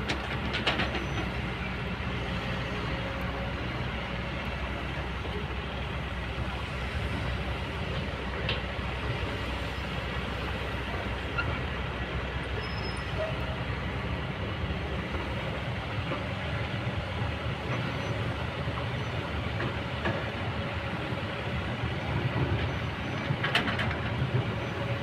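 Kobelco hydraulic excavator's diesel engine running steadily under work, with a few short metallic clanks from the machine.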